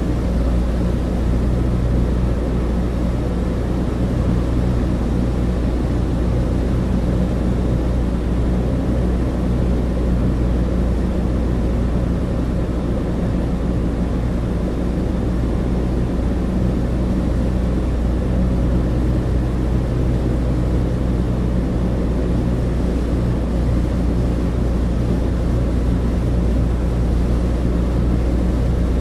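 Douglas DC-3 heard from inside the cabin: the steady drone of its two radial piston engines and propellers, a deep hum with a few steady tones above it, unchanging throughout.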